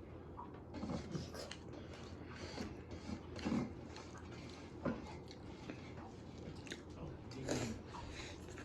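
Close-up eating sounds: a person biting and chewing food, with irregular wet mouth noises and a few louder bites.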